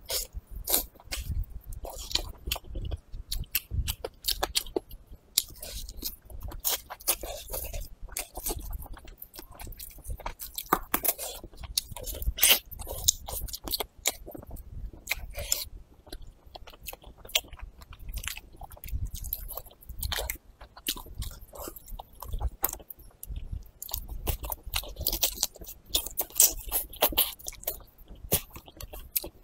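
Close-miked chewing and biting of braised meat, with many short sharp mouth clicks throughout.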